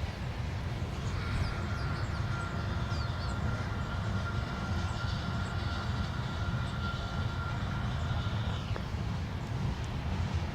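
Freight train rolling past: a steady low rumble of cars on the rails, with a thin steady high tone that cuts off sharply near the end.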